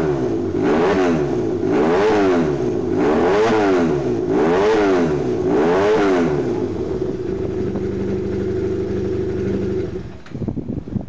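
Honda CB250T motorcycle with a swapped-in six-speed 400 cc parallel-twin engine, blipped about five times, each rev rising and falling back to idle. It then idles steadily and cuts off near the end with a few clatters.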